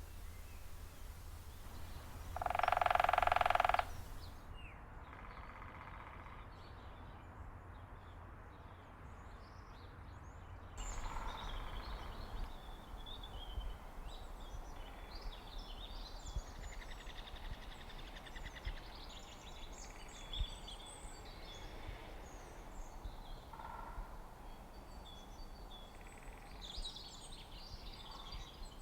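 Birds calling: a loud, harsh call lasting about a second and a half comes about two seconds in, with a fainter one soon after. From about eleven seconds on, many small birds chirp and trill over a steady outdoor background, with abrupt changes in the background where the recording is spliced.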